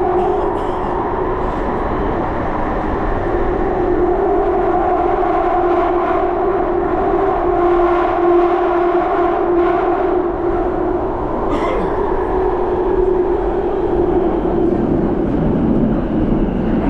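Underground metro train running through a tunnel between stations: a steady rumble with a held hum from the motors and a few brief rattles or clicks along the way.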